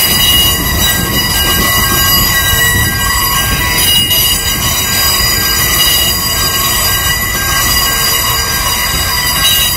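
Freight train of bogie tank wagons rolling past, the wheels running on the rails with a steady rumble and a continuous high-pitched wheel squeal. A faint beep repeats about twice a second throughout.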